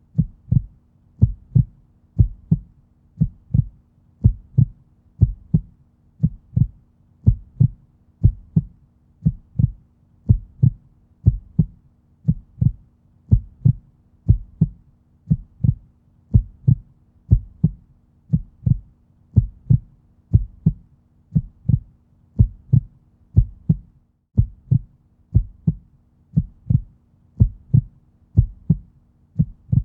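Heartbeat: a steady, even rhythm of low paired lub-dub thumps over a faint low hum.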